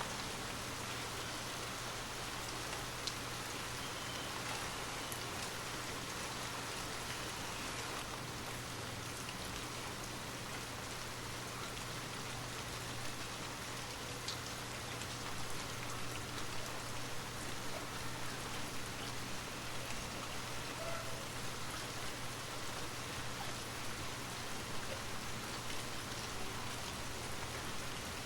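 Steady rain falling, an even hiss with the odd faint drop tick and a constant low hum beneath it.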